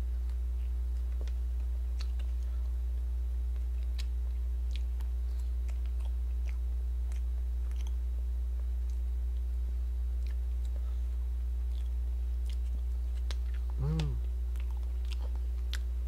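A person eating soft sweet potato cake with a fork: quiet chewing and scattered faint clicks of the fork, over a steady low hum. A brief voiced hum from the eater near the end.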